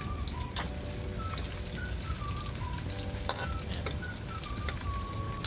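Chopped garlic and onion sizzling in hot cooking oil in an aluminium wok, stirred with a metal spoon that scrapes and clicks against the pan a few times.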